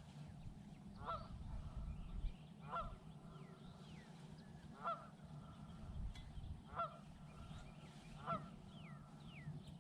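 Bird honking: five short calls spaced about two seconds apart, with a few fainter higher chirps between them, over a steady low hum.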